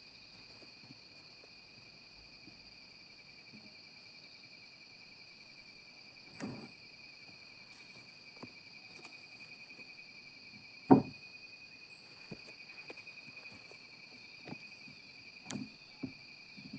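A steady, high insect drone runs throughout, with a handful of short, dull knocks; one knock about eleven seconds in is much louder than the rest.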